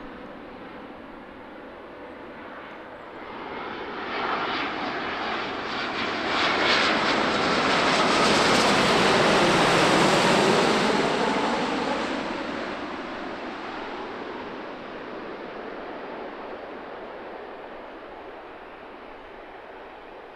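Airliner flying past, its engine noise growing over several seconds, at its loudest about nine to ten seconds in, then fading away slowly.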